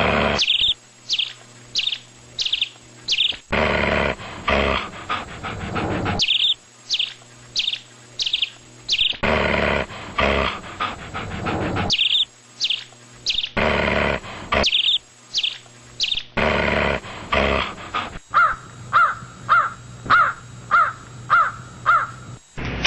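Groups of five or six short, high bird-like chirps at about two a second, alternating with stretches of a dog panting. Near the end a run of lower, clearer chirping notes follows at the same pace.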